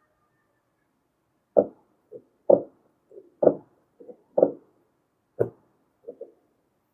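A series of knocks: five stronger ones about a second apart, each followed by a softer tap, with a last pair of light taps near the end.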